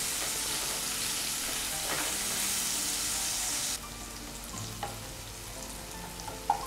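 Chopped tomato and spice paste sizzling gently in oil in a nonstick kadai on a low flame while a wooden spatula stirs and scrapes through it. The sizzle drops abruptly about four seconds in, and a few light spatula knocks follow.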